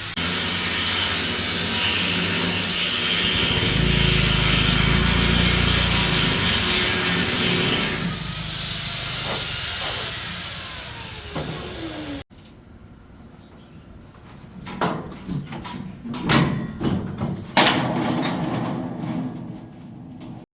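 Loud steady hissing for about twelve seconds, then after an abrupt cut a quieter stretch of scattered knocks and clatter.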